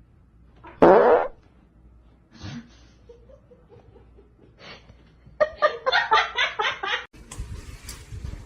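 A short, loud buzzing blurt about a second in, then a person laughing in a quick run of bursts a few seconds later.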